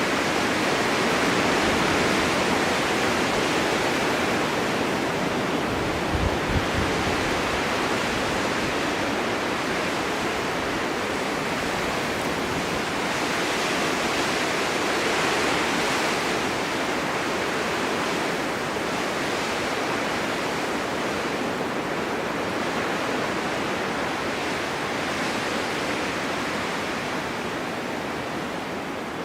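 Snowstorm wind blowing steadily, swelling and easing in slow gusts, with a brief low thump about six seconds in.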